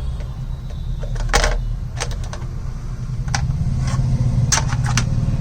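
Phone box accessories and packaging being handled: a few short clicks and rustles, over a steady low rumble.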